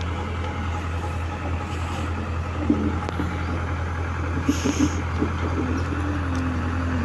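Heavy diesel engine running steadily with a deep, even hum. A few sharp knocks come in the middle, and a short hiss near two-thirds of the way through.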